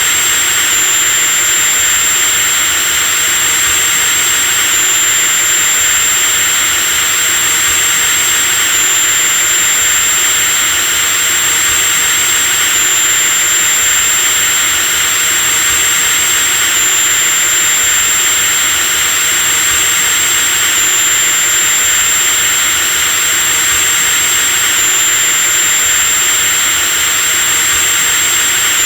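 Electric drill running continuously at a steady speed: a high-pitched motor whine over a steady hiss, the pitch giving a slight jump about every four seconds.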